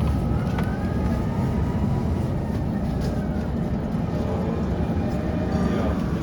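Prague tram running, heard from inside: a steady low rumble with a faint whine that slowly rises and falls in pitch.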